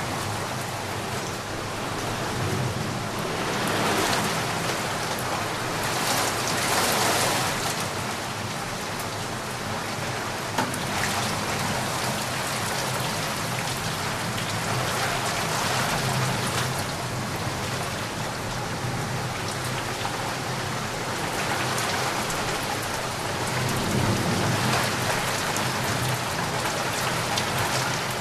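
Steady heavy rainfall, a dense hiss of drops on surfaces that swells louder several times.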